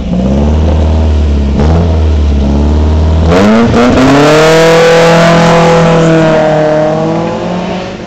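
Opel rally car's engine running at a steady low note, then revved sharply about three and a half seconds in and held high for a few seconds as the car leaves the start line. The note falls and fades near the end.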